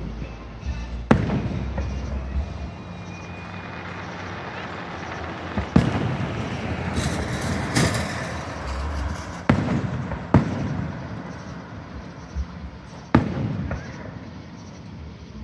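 Fireworks display: aerial shells bursting with sharp booms about five times, the bangs echoing, with a burst of crackling in the middle.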